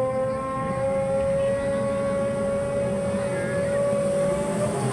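Motocross bike engine held at high revs, its pitch climbing slowly as the bike accelerates, then dropping away shortly before the end, over a low rumble.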